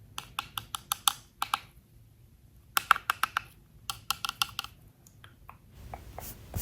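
Rapid runs of light, sharp clicks and taps in three quick bursts with short pauses between, then a few softer scattered taps near the end.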